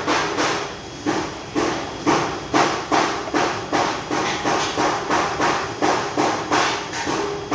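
A hammer striking repeatedly in a steady rhythm, about two to three blows a second, with a short pause about a second in.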